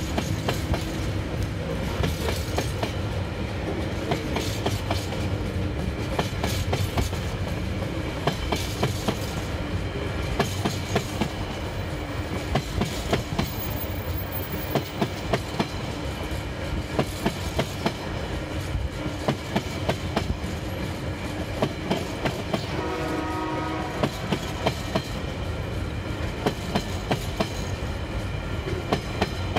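Empty container wagons of a freight train rolling past, their wheels clicking in pairs over the rail joints. A short train horn blast sounds about two-thirds of the way through.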